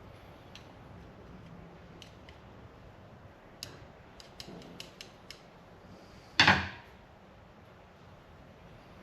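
Small metal parts and tools clicking and clinking during hand reassembly of a brake master cylinder, a run of quick light clicks followed by one louder clack about two-thirds of the way in.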